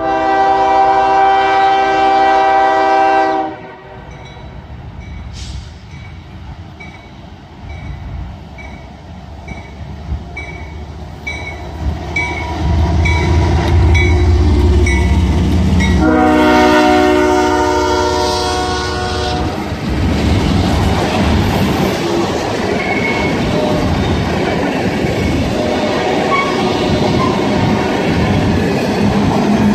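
Diesel locomotive horn sounding two long blasts, the first at the start and the second about sixteen seconds in, with a bell dinging about one and a half times a second between them. A low engine rumble swells as the locomotive draws near, and from about twenty seconds in the train rolls past with wheels clattering over the diamond crossing.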